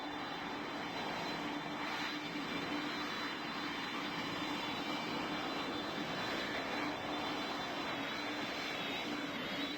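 Airbus A220 jet engines running steadily: an even rushing noise with a low hum and a faint high whine.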